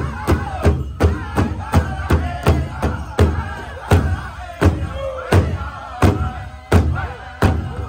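Powwow drum struck in a steady beat with a group of voices singing over it; the beat slows from about three strokes a second to wider-spaced strokes around halfway.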